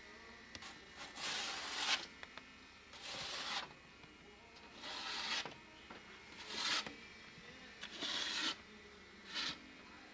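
Six evenly paced scraping strokes, about one every one and a half to two seconds.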